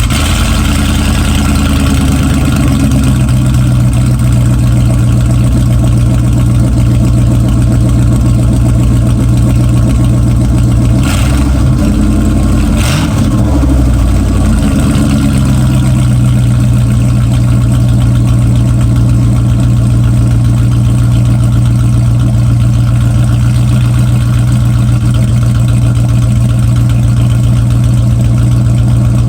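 Dodge truck's 5.9-litre V8 just after a cold start, following six months of sitting, running at a kinda loud, steady idle. About eleven seconds in the engine note wavers and dips for a few seconds, with two sharp knocks, then settles back to a steady idle.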